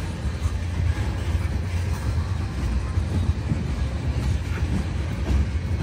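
Cars of a CN manifest freight train rolling past with a steady low rumble.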